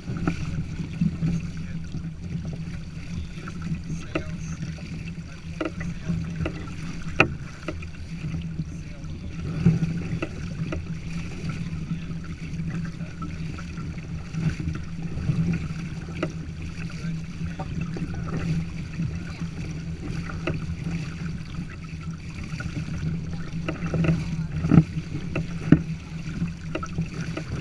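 Water rushing and slapping along the hull of a Long Haul Mark 2 kayak under sail, with steady wind on the microphone and a few sharp knocks, the loudest near the end.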